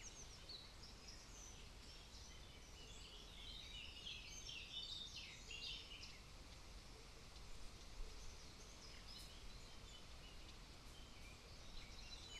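Faint birdsong: small birds chirping in quick high runs, mostly in the first half and again near the end, over a low, steady background noise.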